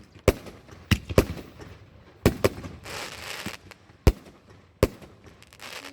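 Fireworks going off: about seven sharp, irregular bangs, with a crackling hiss about three seconds in and again near the end.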